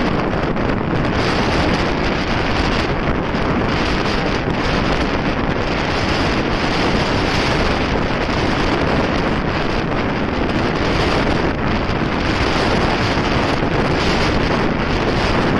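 Steady rush of wind buffeting the microphone of a moving motorcycle.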